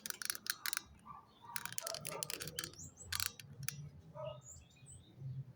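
Small birds: a few short high chirps among clusters of quick, sharp clicks and taps, over a low steady hum.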